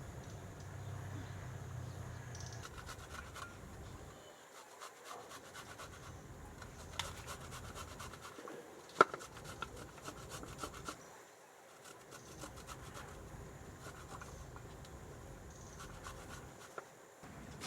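Intermittent scratching and rubbing, with scattered light clicks and taps and one sharper tap about nine seconds in.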